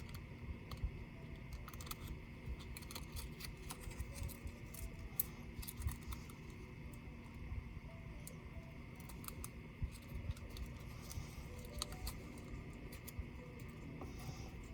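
Scattered small clicks and taps of laptop parts and small hand tools being handled during a teardown, over a steady faint hum.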